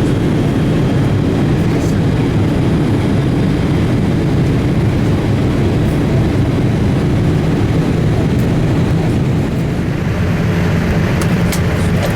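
Steady cabin rumble inside a Boeing 787-8 Dreamliner airliner in flight: the low drone of airflow and engines, with a few faint ticks near the end.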